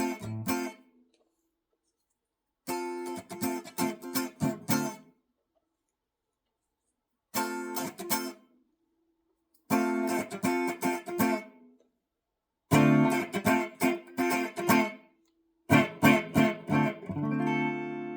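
G&L Legacy Tribute electric guitar played with a clean tone: short phrases of quickly picked notes and chords, each followed by a pause of a second or two. Near the end the last chord is left to ring out.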